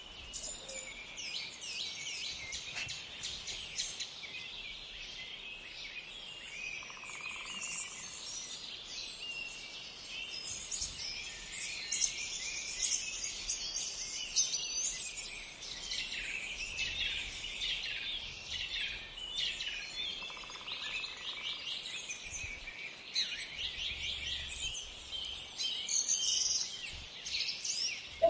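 Small songbirds chirping and singing, many short calls and trills overlapping in a continuous chorus.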